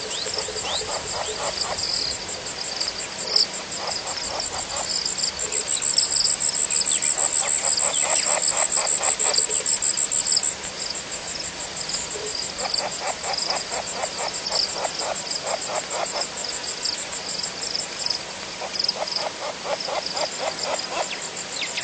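A chorus of frogs calling at a waterhole, in repeated bouts of rapid pulsed trills a second or two long, over a steady high-pitched insect trill.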